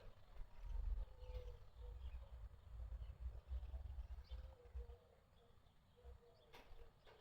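Faint outdoor ambience: scattered bird chirps over an uneven low rumble that dies down after about five seconds, with one sharp click near the end.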